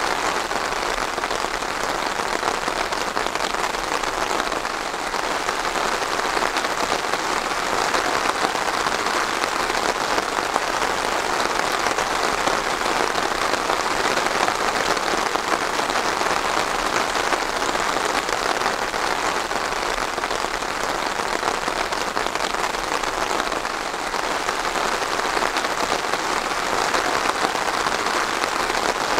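Steady rain falling on a surface: a dense, even patter of many drops at a constant level throughout.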